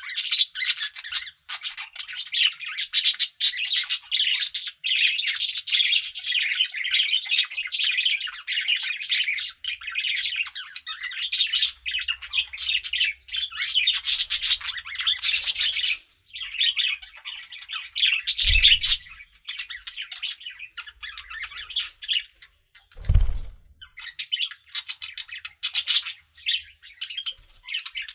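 A flock of pet budgerigars chattering in a dense stream of quick warbles, chirps and squawks. Two dull thumps come a little past the middle, about five seconds apart.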